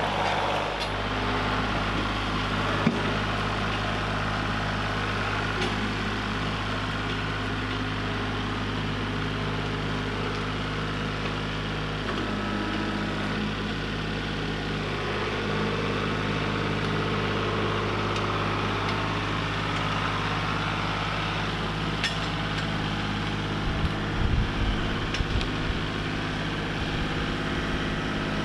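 An engine running steadily with a low hum. A few low thumps come near the end.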